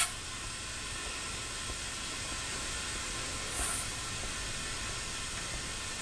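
Faint, steady hiss of air flowing from a portable air tank through a chuck into a flat car tire as it inflates.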